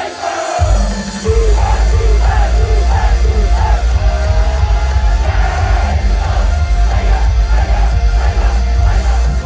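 Live rock band playing loud: a lighter passage breaks about half a second in into heavy bass and drums, with a voice singing or shouting over the band.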